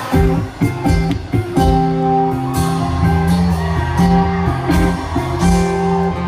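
Rock band playing live: an instrumental passage of strummed and picked guitars over bass and drums, without singing.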